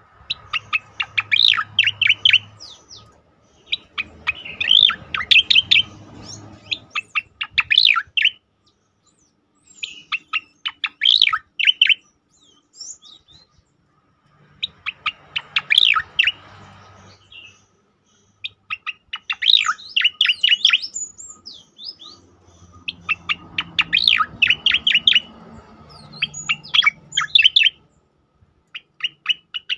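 Common iora (cicak oreng) singing in rapid-fire bursts of sharp, chattering notes. The phrases repeat every few seconds with short pauses between them.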